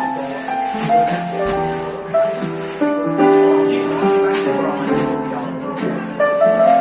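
Live jazz band playing, with sustained keyboard notes and chords and light percussion, bar patrons chatting under it.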